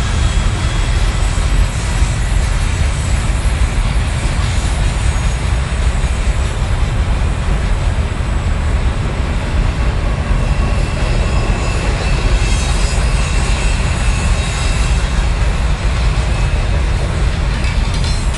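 Freight train cars rolling past with a steady, loud rumble and a faint high wheel squeal in the first few seconds.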